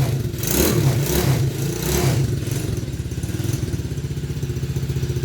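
Small 110cc four-stroke single-cylinder engine of a kids' mini ATV, revved in about three short throttle blips and then settling to a steady idle.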